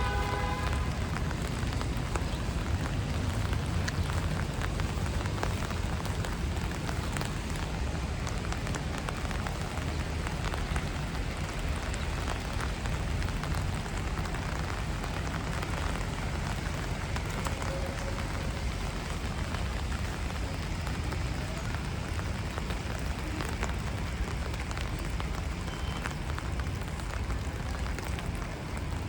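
Steady rain on a city street: a dense patter of raindrops over a constant low rumble.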